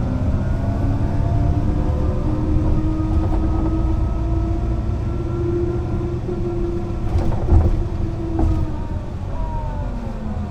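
Mercedes-Benz O 405 NÜ low-floor bus running: its engine and drivetrain note climbs slowly and holds as the bus pulls, then drops away near the end as it slows. A few short knocks and rattles come about three-quarters of the way through.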